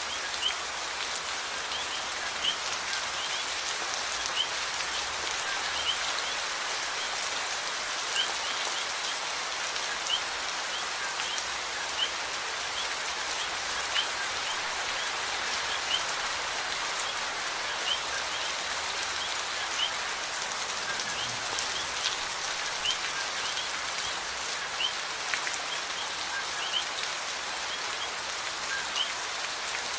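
Steady rain falling, an even hiss with no letup. Short high chirps recur every second or two over it.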